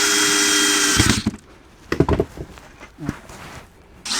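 Power drill driving screws into wood, running at a steady speed for about a second and then stopping. A few short knocks follow, and the drill starts again right at the end.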